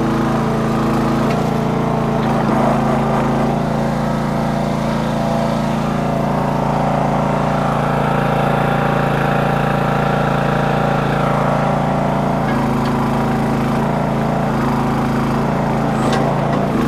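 Small gasoline engine of a Red Rock / Trencherman towable backhoe running steadily under load as the machine is worked. Its note shifts in the middle as the load changes, and there are a few sharp knocks near the end.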